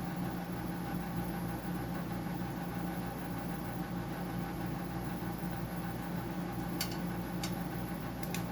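Steady machine hum with a constant low tone, and a few faint clicks near the end.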